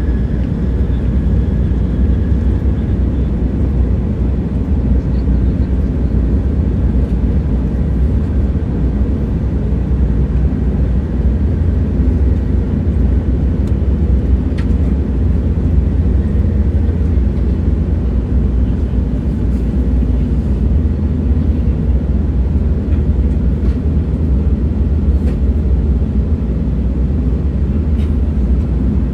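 Train running at steady speed: a constant deep rumble, with a faint high tone in the first few seconds and a few light ticks.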